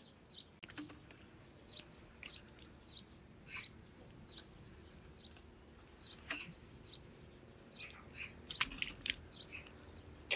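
A small bird chirping over and over, short high notes that fall in pitch, roughly one or two a second, with a few sharp clicks near the end.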